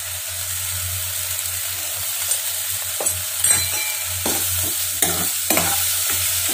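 Bitter gourd slices sizzling in hot sesame oil in a nonstick frying pan. From about three seconds in, a spatula scrapes and stirs them around the pan in short strokes.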